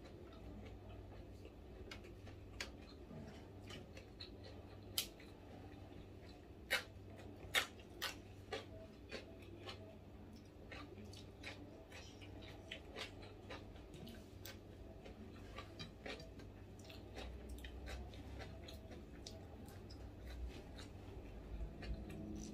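A person biting and chewing crunchy food at close range: many sharp crunching clicks, loudest in a cluster between about five and nine seconds in, over a low steady hum.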